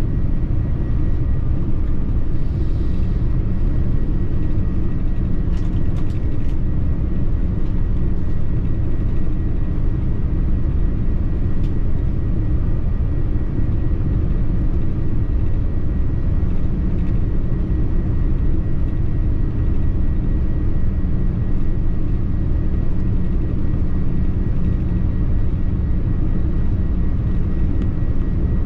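Steady, loud rumble of airflow and engines inside the cabin of a Boeing 787-9 airliner, with a faint steady whine and a few light clicks.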